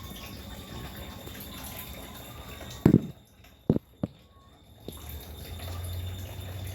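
Water running, broken by three sharp knocks about three to four seconds in, after which the water noise drops away briefly before returning.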